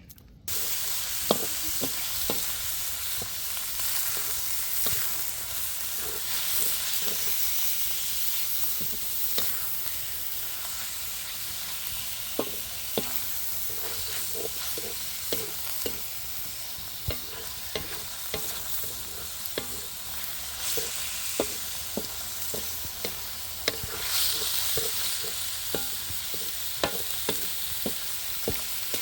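Food frying in hot oil in a pan, a steady sizzle, while a spoon stirs it with frequent knocks and scrapes against the pan.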